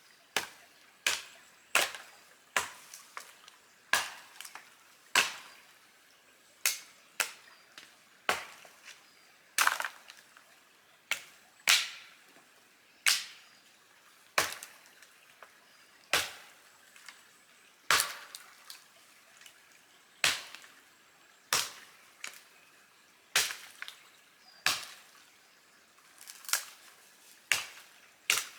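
Kindling being broken up for a campfire: a string of sharp, dry wooden cracks at irregular intervals, about one a second.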